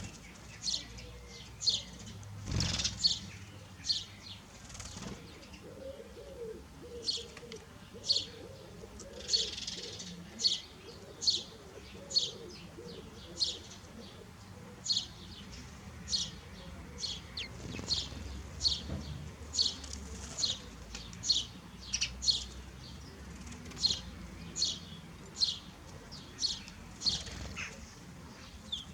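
Small bird chirping over and over, short high chirps about one to two a second, with a faint lower wavering call underneath in the first half.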